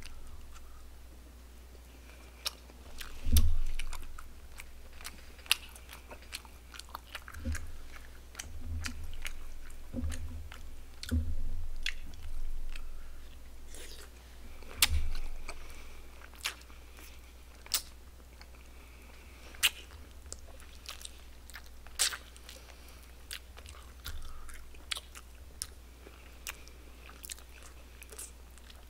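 A person chewing and biting mouthfuls of barbecued pork close to a microphone, with wet mouth sounds, many sharp clicks and a few dull thumps, the loudest about three seconds in.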